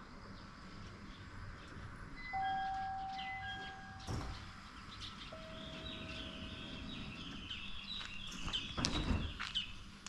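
Birds chirping and calling over a low background rumble, with a louder noisy patch and a few clicks near the end.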